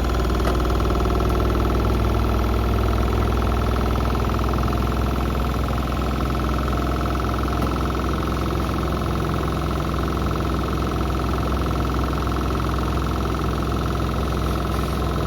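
Beko WM74135 front-loading washing machine spinning at speed: a steady, unbroken motor and drum hum with a strong low drone and a higher whine.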